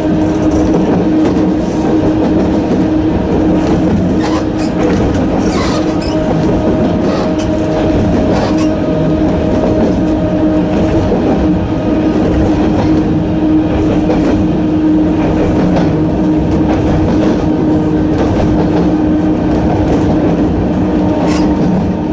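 Narrow-gauge electric train running at a steady speed, its nose-suspended traction motors giving a steady hum over the rolling noise, with scattered clicks from the wheels.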